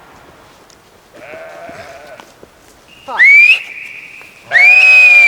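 Goats bleating: a faint bleat about a second in, then two loud bleats, one near the middle rising in pitch at its start and one near the end.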